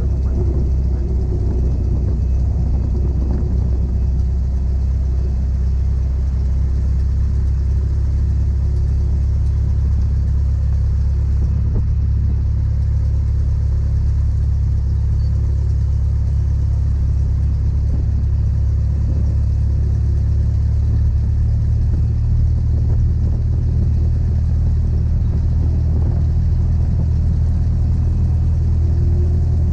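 Cessna 172's piston engine and propeller running at low taxi power, a steady low drone that holds an even pitch throughout.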